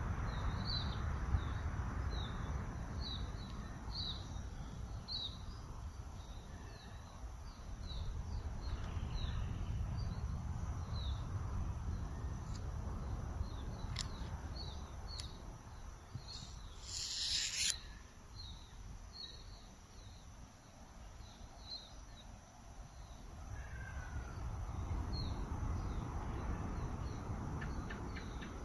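Outdoor natural ambience: a steady low rumble with a run of short high chirps, one or two a second, that pause for a stretch mid-way. About seventeen seconds in comes a loud hiss lasting about a second and a half.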